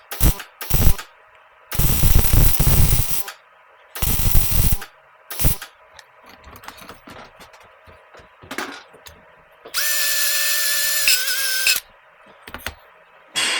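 Metalwork on a corroded motorcycle exhaust pipe: several rough bursts of noise lasting up to about a second and a half, then a power tool's motor running steadily for about two seconds near the end before stopping.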